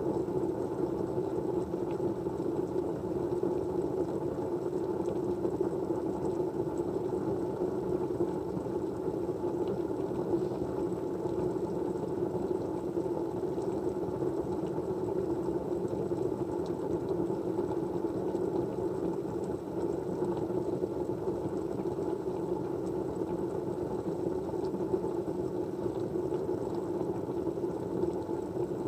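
Steady, even white-noise hum, fullest in the low-mid range, with a thin high whine and a few faint scattered ticks.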